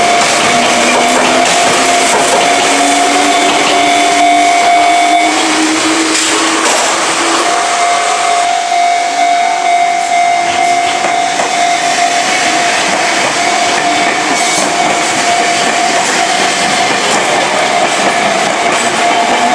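Enoshima Electric Railway (Enoden) train running over a level crossing, its wheels clattering, while the crossing's warning bell rings steadily. A low hum rises in pitch over the first several seconds.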